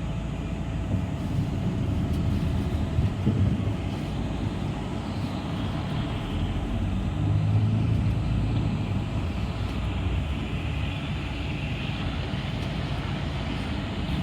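City bus in motion, heard from a ride aboard: a steady low engine and road rumble. A higher hiss rises briefly about three-quarters of the way through.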